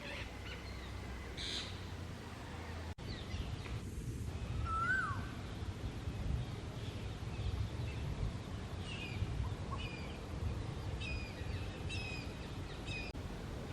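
Birds calling: scattered short chirps and calls, a single sweeping call about five seconds in, and a run of repeated calls near the end, over a steady low rumble of outdoor noise. The background changes abruptly about three seconds in and again near the end, at edits.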